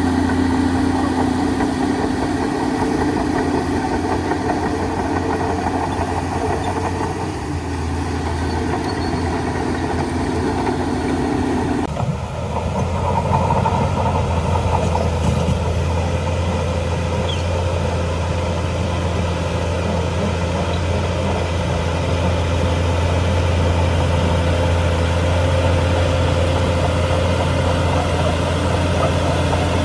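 Shantui DH17C2 bulldozer's diesel engine running steadily under work. Its note changes abruptly about twelve seconds in.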